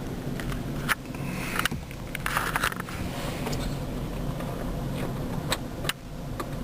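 2003 Ford Ranger XLT's engine idling steadily, heard from inside the cab, with scattered light clicks and knocks.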